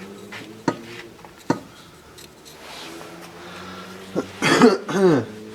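Two sharp clicks of parts being handled on the bench, then near the end a person coughing, its pitch falling.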